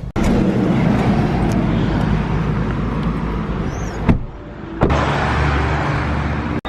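Car driving: steady road and engine noise with a low rumble, in two stretches broken by a short quieter gap about four seconds in.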